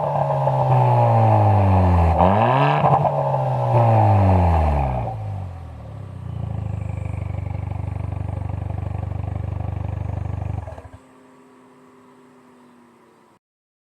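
Hyundai Veloster Turbo's 1.6-litre turbocharged four-cylinder through an aftermarket mid/high-tone muffler, free-revved so the exhaust note rises and falls twice. It then settles to a steady idle for about five seconds before cutting off suddenly.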